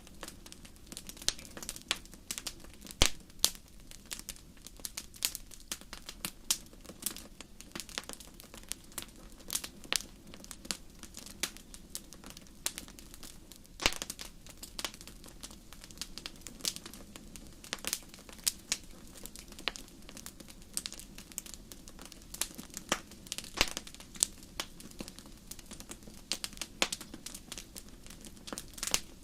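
Wood fire burning in a fireplace: irregular crackling with many sharp pops over a low steady hiss, the loudest pops about three and fourteen seconds in.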